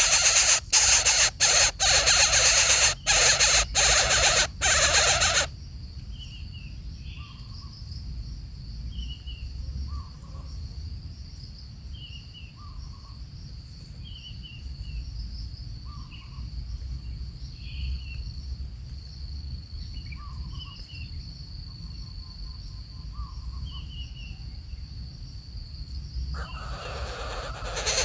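A coucal calling over and over, a short call about every two seconds, with a steady high insect drone behind it. For the first few seconds a loud rough noise with brief cut-outs covers everything, then stops suddenly; it comes back near the end.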